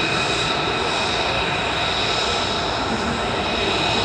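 Large Marine Corps heavy-lift helicopter flying close by, running steadily: a high turbine whine over a dense rumble of rotor and engine noise.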